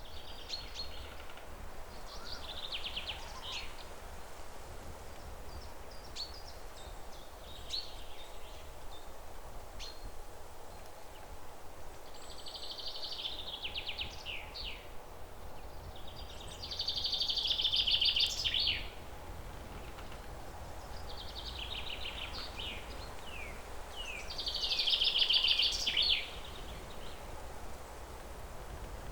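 Small songbird singing repeated phrases every few seconds, each a rapid high trill ending in a few quick falling notes; two phrases, about halfway through and near the end, are louder. A low steady rumble of outdoor noise runs underneath.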